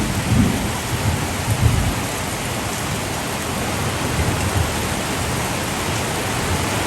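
Heavy rain pouring down in a steady, dense hiss, with a few low rumbles in the first two seconds.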